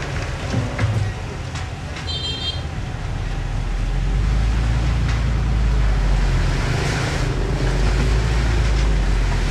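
Diesel engine of heavy earthmoving machinery running, growing louder and deeper from about three and a half seconds in. A brief high tone sounds about two seconds in.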